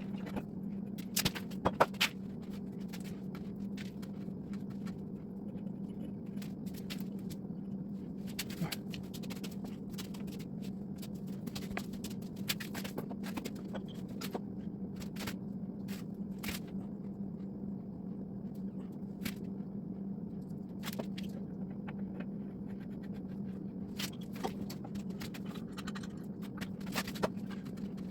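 Hand tools working threaded steel gas pipe: scattered metal clicks and scrapes, louder and bunched about two seconds in, over a steady low hum.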